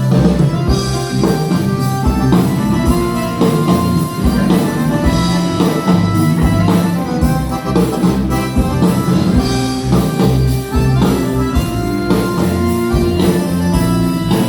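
Live band playing a song, with guitar, bass, keyboard and drum kit, loud and steady.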